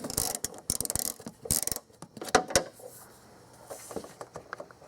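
Socket ratchet with an 8 mm socket clicking in quick runs as a long bolt is backed out of the coolant reserve tank bracket, followed by a few scattered clicks.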